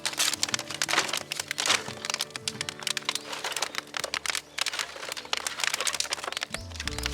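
A wood fire crackling with many quick, irregular pops, under background music.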